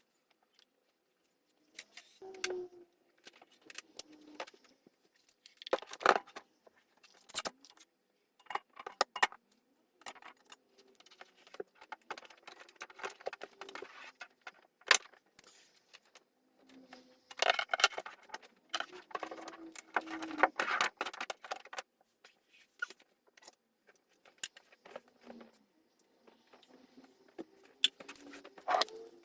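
Clattering and clinking of small hard household objects being picked up, moved and set down during tidying, in irregular bursts with the busiest handling around six seconds in and again from about seventeen to twenty-one seconds.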